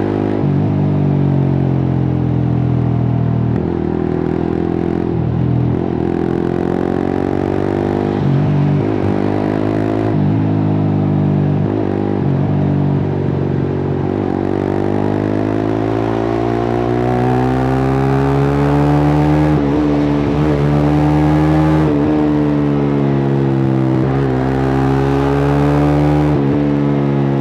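Suzuki GSX-R150's single-cylinder engine through a cut-open exhaust, ridden on the road: the pitch rises and drops several times with brief breaks in the first half, then climbs slowly and holds high near the end.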